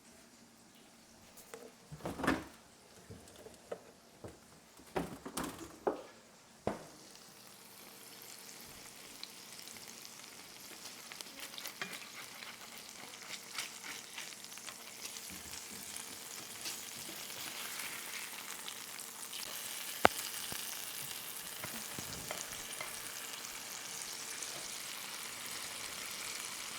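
Food frying in a hot skillet: a few knocks at first, then a hiss of sizzling that grows steadily louder, with one sharp click about two-thirds of the way through.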